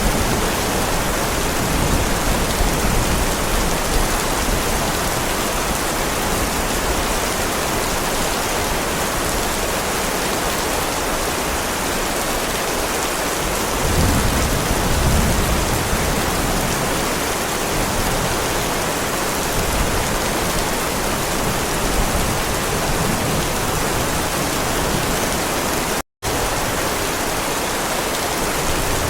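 Heavy rain falling steadily on a driveway, an even dense hiss, with a low rumble swelling briefly about halfway through. The sound cuts out for a split second near the end.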